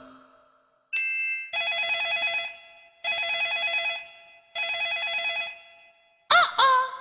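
Telephone ringing: a short tone, then three trilling rings of about a second each, evenly spaced. A voice-like sound cuts in near the end.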